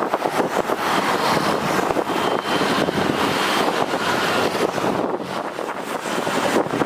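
Steady jet engine noise from an airliner, with wind buffeting the microphone and a faint high whine about two to three seconds in.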